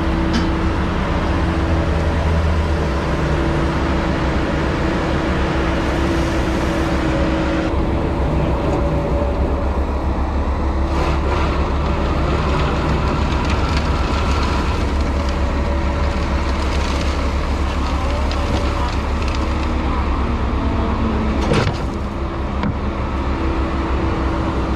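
Construction equipment engine running steadily under load, with a low rumble and a steady hum. A single sharp knock or clank sounds near the end.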